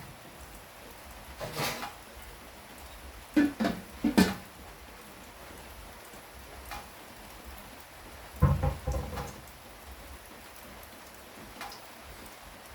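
Steady rain falling, a constant even hiss. A few short, louder sounds break through it: one about a second and a half in, a cluster around three to four seconds, and another around eight to nine seconds.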